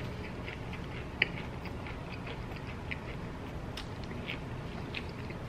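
A person chewing food close to the microphone: soft, irregular wet mouth clicks, a few a second, with one sharper click about a second in.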